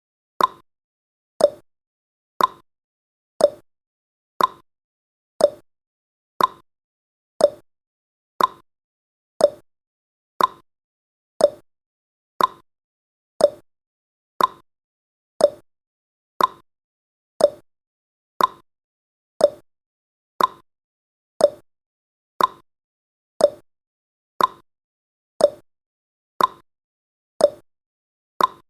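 Clock tick-tock sound effect of a countdown timer: one short click every second, alternating between a higher and a lower click.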